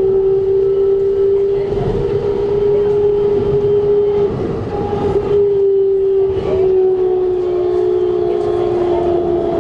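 Keikyu New 1000 series train running, heard from inside the car, with its Siemens GTO VVVF inverter giving a loud steady whine over rail and running noise. The whine wavers briefly about halfway through, then carries on a little lower.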